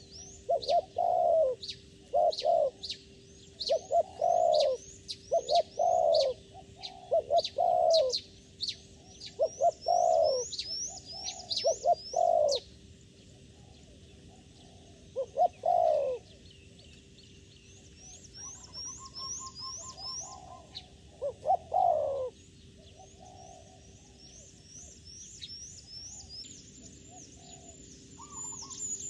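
Doves cooing: short, low coos repeated in quick phrases, which stop about three-quarters of the way through, with sharp, high, falling chirps of small birds over them.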